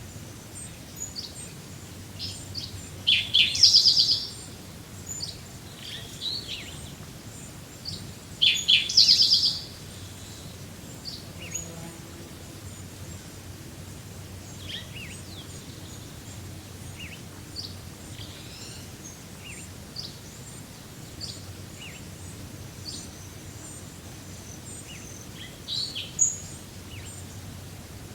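Wild birds singing: many short high chirps from several birds throughout, with two louder, rapid trilled song phrases about three seconds and nine seconds in, over a faint steady outdoor background hiss.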